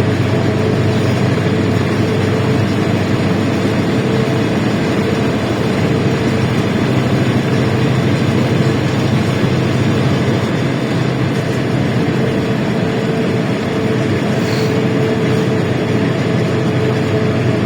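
LiAZ-677M city bus's V8 petrol engine running at a steady speed, heard from inside the moving bus, with a constant hum and road noise.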